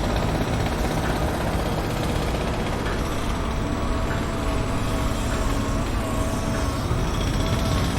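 Heavy construction vehicle engine running steadily with a low rumble, with a thin steady whine over it. Faint ticks come about once a second.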